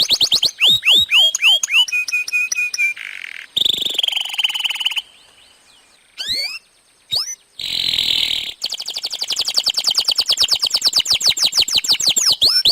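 Domestic canary in continuous full song. Fast trills of repeated down-sweeping notes, a harsh buzzy note about four seconds in, a brief pause, then a long rapid trill running on near the end.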